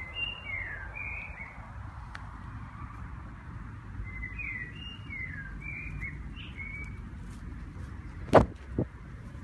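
A songbird singing two short phrases of quick whistled notes a few seconds apart over a steady low rumble. Near the end come two knocks, the first much louder, as the rabbit bumps into the phone.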